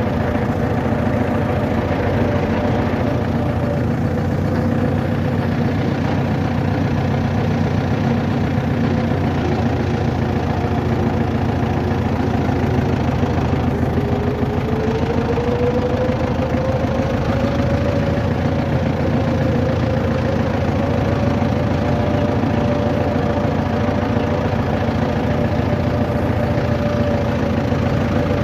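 Vehicle engine running steadily, with a whining tone that rises in pitch about halfway through and then holds.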